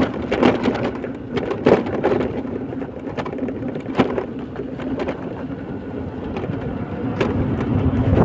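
Vehicle noise on a road: a steady rumble with a faint hum, broken by scattered knocks and clicks.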